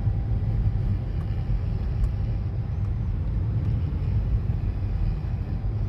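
Hyundai i10 hatchback being driven, a steady low rumble of tyre and engine noise with no change in pace.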